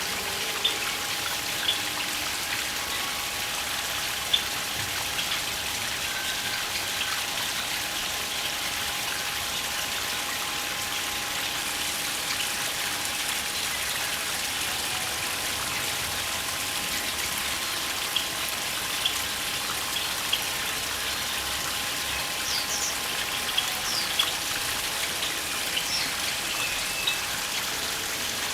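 Steady hiss of falling water, like rain, with scattered light ticks and a few faint high chirps near the end.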